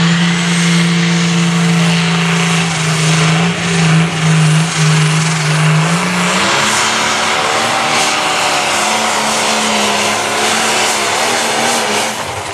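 Light pro stock pulling tractor's turbocharged diesel engine running hard at full throttle during a pull, with a high turbo whine over it. The engine note shifts to a slightly higher, rougher pitch about halfway through.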